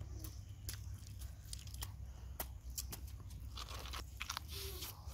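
Close-miked crunching and chewing of chicken coated in egg and flour: irregular sharp crunches as pieces are bitten and chewed, over a steady low rumble.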